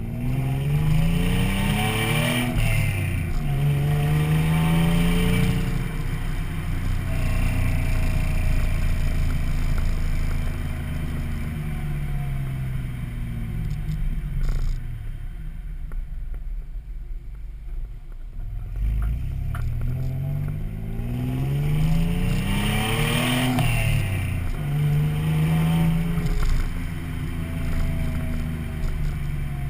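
Exhaust of a 1995 Toyota 4Runner's 3.4 L 5VZ-FE V6, running through a Flowmaster 40 muffler and 4-inch tailpipe, under acceleration: the engine note rises and drops back in steps as the five-speed manual is shifted up. It eases off to a quieter lull midway, then pulls up through the gears again.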